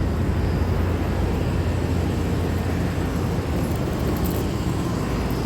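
Steady machine running noise with a strong low hum and a hiss.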